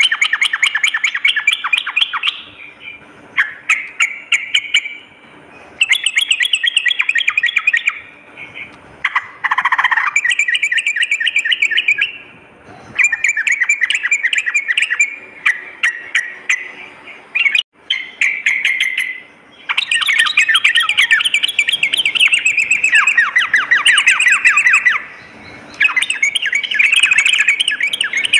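Yellow-vented bulbul (trucukan) singing: bursts of rapid chattering notes, each a second or two long, repeated over and over with short pauses between them.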